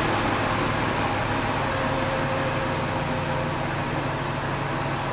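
1964 Chevrolet Corvette's 327 V8 running slowly at a steady low idle, growing a little quieter as the car moves away.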